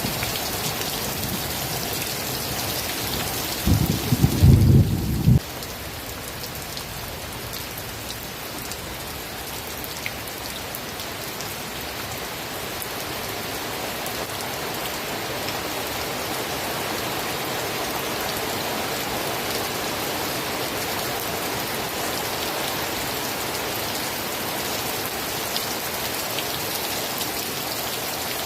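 Steady rain falling, with a short, loud low rumble of thunder about four seconds in that cuts off abruptly after a second and a half.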